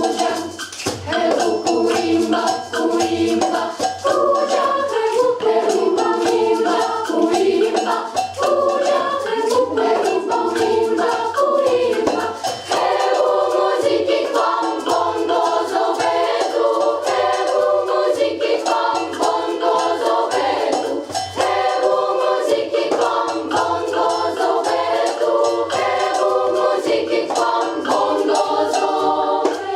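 Children's choir singing in several parts, accompanied by light hand percussion such as tambourine or shakers.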